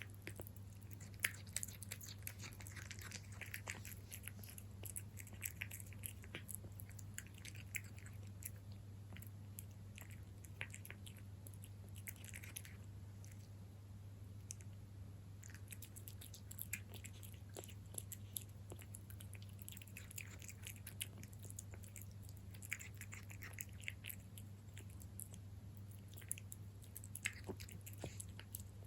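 Cat chewing MiawMiaw Juicy cat food close to the microphone: bouts of quick, crisp chewing clicks broken by short pauses, over a steady low hum.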